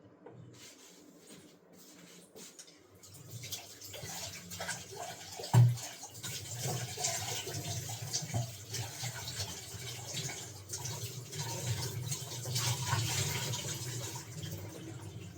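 Grated potato, carrot and onion being mixed together by hand in a bowl: a continuous rustling with scattered small clicks. It gets louder about three seconds in, and there is one sharp knock about five and a half seconds in.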